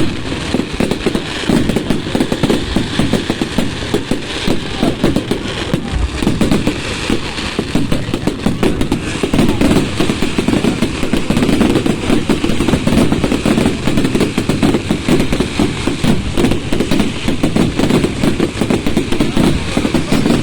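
Fireworks going off in a continuous rapid run of bangs and crackles.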